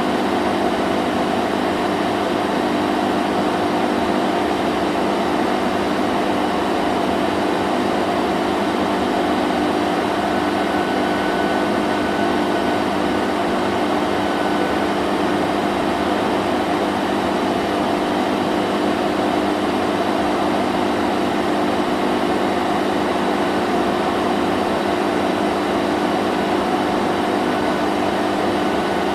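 Vacuum cleaner running steadily: a constant motor hum under a rush of air, with no change in pitch or level.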